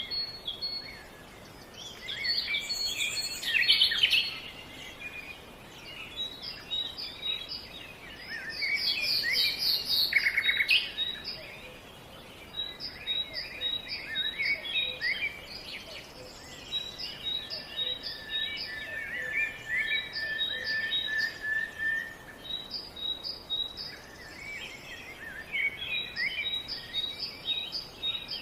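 Several birds singing and chirping at once, a busy chorus of short repeated high notes and trills, with louder song bursts around 3–4 s and 9–11 s, over a steady outdoor background hiss.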